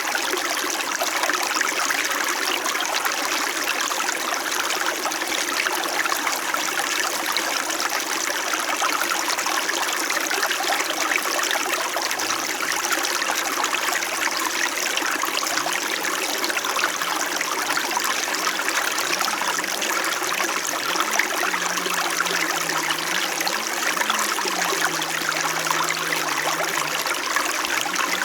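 Small mountain creek flowing steadily: a continuous, even trickling rush of water.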